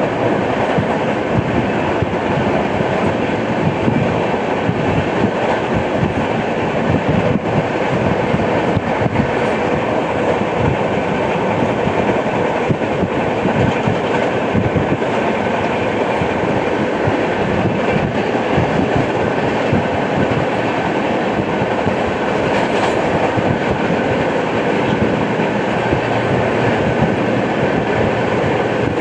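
Steady rumble and clatter of a moving express passenger train heard from on board: wheels running over the track with continual clickety-clack and jolting.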